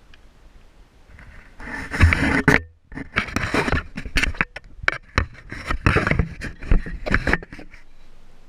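Irregular scraping and rustling with sharp clicks, from plastic tubing being worked down through the front differential's top fill hole.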